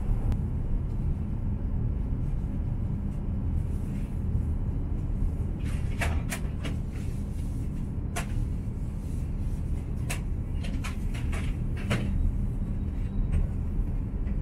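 Cabin sound of an H5 series shinkansen rolling slowly into a station: a steady low rumble with a faint hum. From about six seconds in come a string of sharp clicks and knocks.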